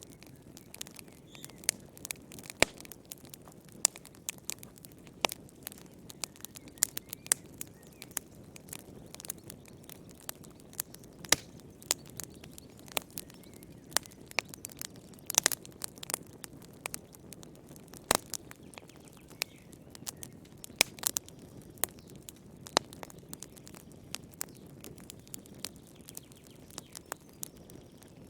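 Wood fire crackling, with irregular sharp pops and snaps, some louder than others, over a soft steady rush from the flames.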